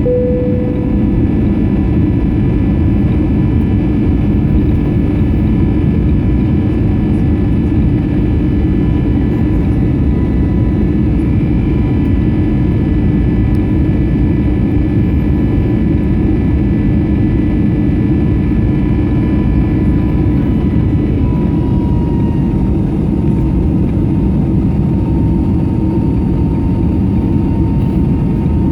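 Airbus A321neo jet engines heard from the cabin in the climb: a steady, loud rush with several high whining tones over it. About three-quarters of the way through, the main whine drops slightly in pitch and the higher tones fade. A short clear tone sounds right at the start.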